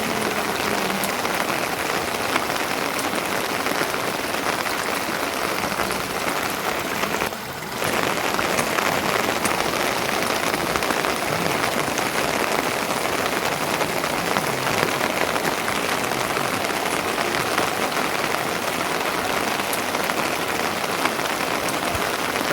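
Steady rain falling, an even dense patter that dips briefly about seven seconds in.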